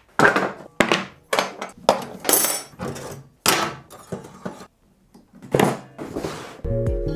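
A string of about a dozen sharp knocks and thuds, each dying away quickly, with a short pause a little past the middle; near the end a steady machine hum starts.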